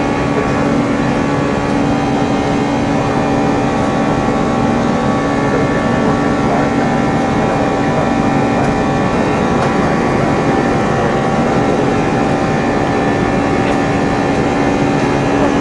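Steady drone of an Airbus A340's jet engines, with many fixed tones over a noisy rush, unchanging in level throughout.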